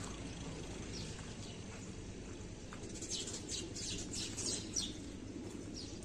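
Small birds chirping: a quick run of short, high, falling chirps about three to five seconds in, with a few single chirps before it, over a faint steady background noise.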